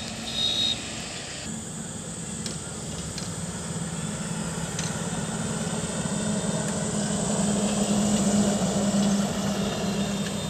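Highway traffic: a heavy vehicle's engine hum and road noise build up steadily and peak near the end as it passes, then begin to fade. A brief high beep sounds about half a second in.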